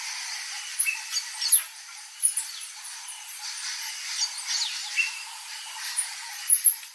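Birds chirping and calling in many short, high, quick notes, some sweeping downward, over a steady high insect drone, in a wild bushveld setting.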